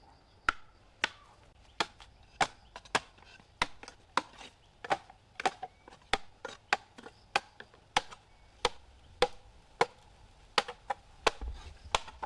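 Repeated chopping with a blade, sharp strikes at about two a second, fairly even with an occasional quick double stroke.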